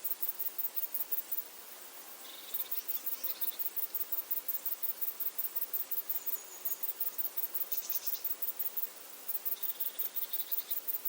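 A single cricket chirping close up in rapid, even, very high pulses, about five a second, pausing briefly a few times. Fainter trills from more crickets sound behind it.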